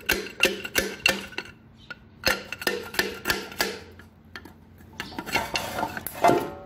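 Metal clinking as hand tools work on the engine's metal parts: runs of light, even strikes about three a second, with short pauses between the runs and one louder ringing clank near the end.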